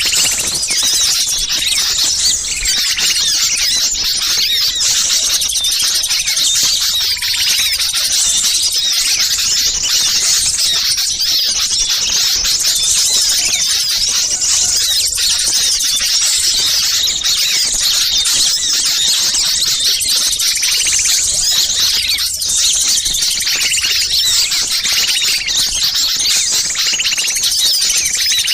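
Bird-lure recording of many small songbirds calling at once: a dense, continuous, high-pitched chatter of agitated calls with no break, of the kind played to draw wild small birds in.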